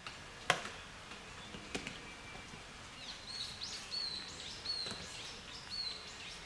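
Outdoor evening ambience with a bird calling: a series of about five short calls, each a quick upward flick into a brief held whistle, from about three seconds in. Two sharp clicks sound in the first two seconds.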